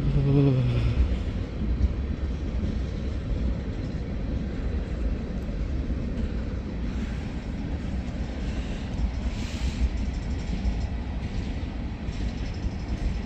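Freight train rolling slowly, a steady low rumble of its cars and wheels on the rails.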